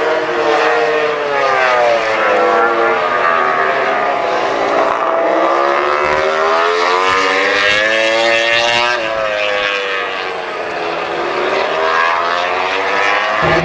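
MotoGP race motorcycles at speed, several engine notes overlapping and rising and falling in pitch as the bikes pass. The loudest pass peaks about nine seconds in, then drops sharply in pitch.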